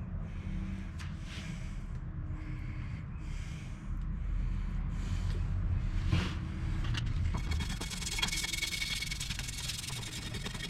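A brush scrubbing caked grease and gunk off an engine part soaked in mineral spirits, in regular back-and-forth strokes. From about seven seconds in the scrubbing turns into a denser, harsher continuous scraping. A low steady hum runs underneath.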